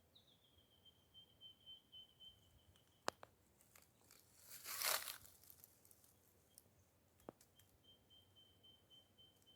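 Near-quiet bush, with a faint, high, steady pulsing trill heard twice: at the start, then again near the end. About halfway through comes a brief crunchy rustle, the loudest sound, with a couple of sharp clicks before and after it.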